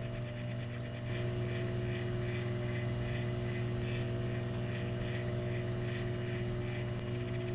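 Microwave oven running with a steady electrical hum, which grows a little louder about a second in as a higher tone joins it; a faint rhythmic pulsing sits above the hum.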